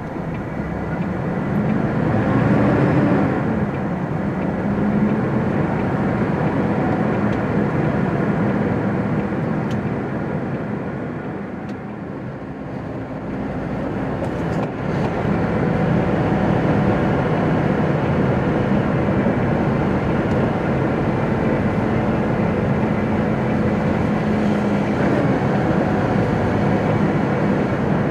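Diesel engine and road noise of a MAN TGX articulated truck heard from inside the cab while driving, a steady hum that eases off about twelve seconds in and builds again a few seconds later.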